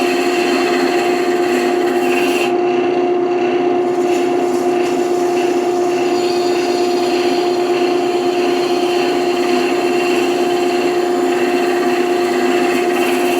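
Wood lathe running with a steady hum while a carbide-tipped turning tool scrapes the spinning wood; the cutting stops briefly about two and a half seconds in, then carries on.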